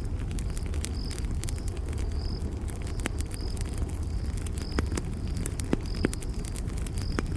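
Campfire burning with a steady low rumble and scattered sharp crackles and pops, a few louder ones in the second half. A cricket chirps once about every second over it.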